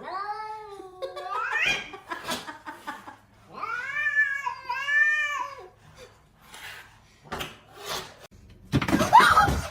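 A domestic cat meowing several times: a short falling meow, a rising one, then two long wavering meows in a row. Near the end there is a louder, noisy burst.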